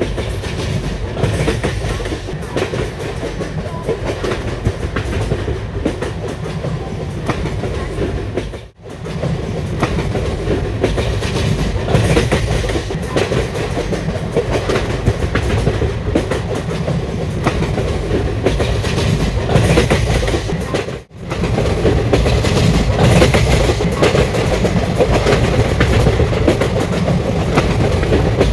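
A passenger train running on the rails, its wheels clattering steadily over the rail joints. The sound drops out abruptly twice.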